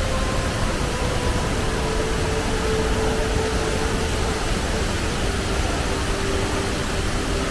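Waterfall in monsoon flow: a loud, steady rush of falling water, with faint background music underneath.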